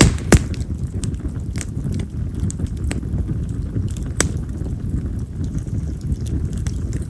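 Yamazakura (wild mountain cherry) firewood burning in an open campfire: a steady low rush of flame with sharp crackles and pops at irregular intervals. The loudest pops come just after the start and about four seconds in.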